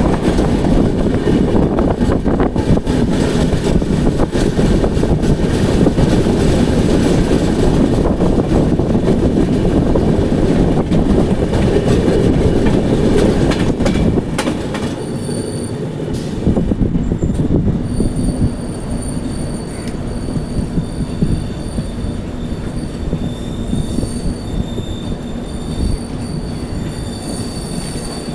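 A Duronto Express passenger train running on the rails with a heavy rumble. About halfway through the rumble drops and high, thin squealing tones come in and hold steady.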